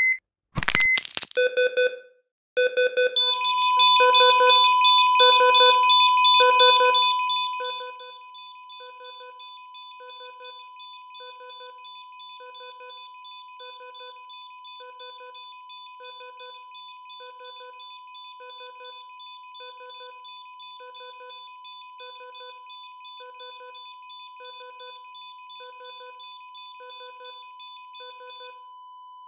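Synthesized countdown-timer sound: short electronic beeps about once a second over a steady high tone. It is loud at first, then drops to a lower level about eight seconds in and keeps ticking at the same pace.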